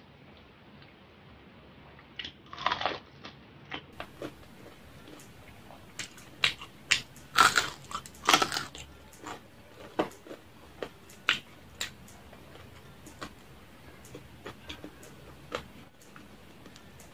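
Close-up crunching and chewing of crispy fried pork skin, dipped in vinegar. There is a burst of crackling crunches early on, the loudest crunches come in a cluster a few seconds later, and lighter chewing crackles follow.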